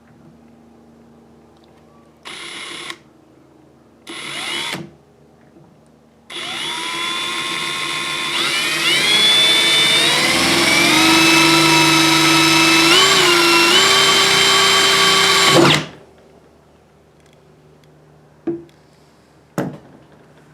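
Power drill boring into the kayak's plastic hull: two short trigger spurts, then a run of about nine and a half seconds whose whine climbs in pitch and then holds before stopping abruptly. Two sharp clicks follow near the end.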